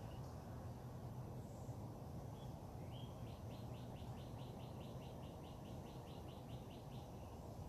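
A songbird sings one phrase about three seconds in: a short lead note, then a quick run of about sixteen evenly repeated notes lasting some four seconds. A steady low hum runs underneath, with a few faint chirps before the song.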